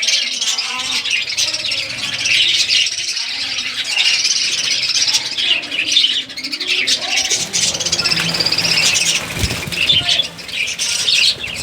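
Budgerigars chattering, with many overlapping chirps, squawks and warbles going on without a break.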